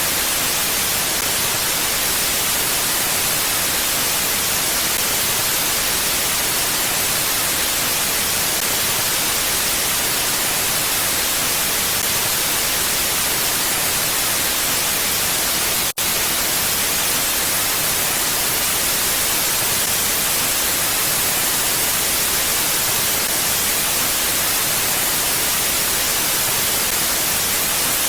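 Steady rushing wind, an even hiss with no gusts, heavier in the highs than the lows. It drops out for an instant a little past halfway.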